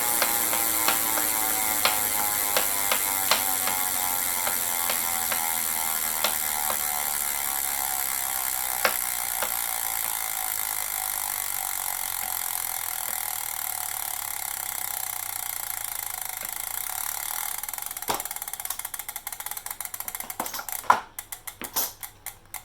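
Elite Direto direct-drive trainer coasting down: the flywheel whir falls slowly in pitch while a sharp knock recurs, further apart as it slows, over the ratchet ticking of the freehub pawls. The knock is the fault being shown. Near the end the ticking thins out into a few separate clicks as it comes to a stop.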